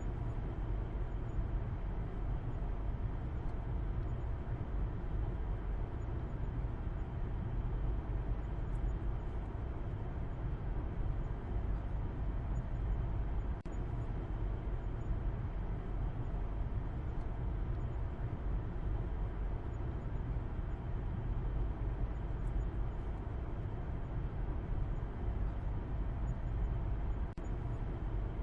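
Steady low rumble of a car driving, its road and engine noise heaviest in the bass, with brief dips in level about halfway through and near the end.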